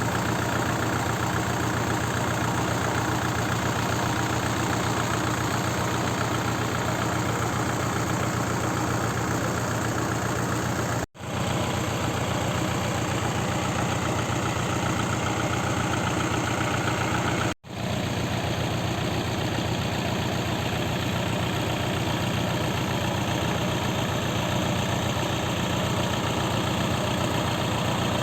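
Kubota L5018 tractor's diesel engine running steadily with a low hum. It cuts out for an instant twice, about 11 and 17.5 seconds in.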